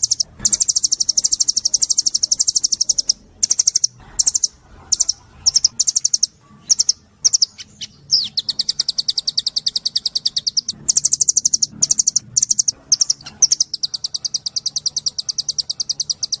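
Small songbird singing high, fast trills of rapidly repeated notes, in long runs of two or three seconds broken by short bursts. It is a masteran recording, bird song played to tutor captive songbirds.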